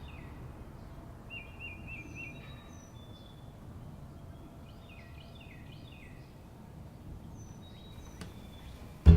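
Several songbirds singing in woodland: groups of quick falling whistled notes, a short warbling run of notes and a few thin high calls, over a low steady background rumble. An acoustic guitar starts loudly at the very end.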